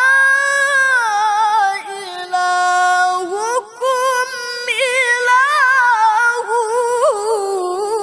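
A man's high voice reciting the Quran in the melodic tajwid style, drawing the words out over long held, ornamented notes that glide and waver in pitch. There is a short breath about three and a half seconds in.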